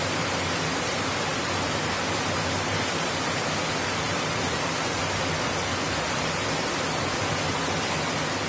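Heavy monsoon rain pouring down, a dense, steady hiss.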